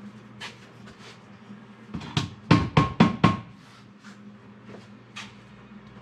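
Quick run of about five sharp metal-on-metal knocks with a brief ringing tone, a little after two seconds in, among lighter clicks and taps while working on the engine cases; a steady low hum runs underneath.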